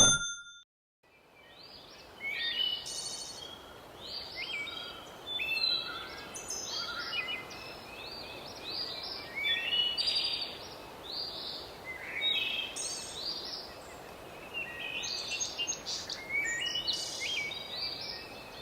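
Wild birds calling and singing: many short chirps and trills, some sliding in pitch, repeating at irregular intervals over a faint steady outdoor hiss, starting after a brief silence.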